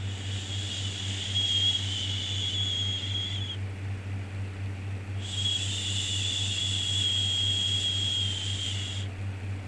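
Rhythmic 'shhh' shushing sound for soothing a baby: two long shushes of about three and a half seconds each, with a pause of under two seconds between them, over a steady low hum.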